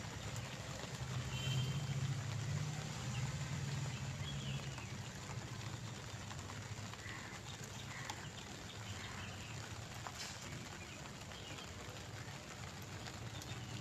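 Outdoor ambience: a steady low rumble, a little louder for a few seconds near the start, with faint scattered chirps.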